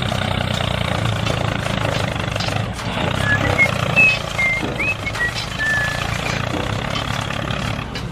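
Small tractor engine running steadily, with a few short, high chirps in the middle.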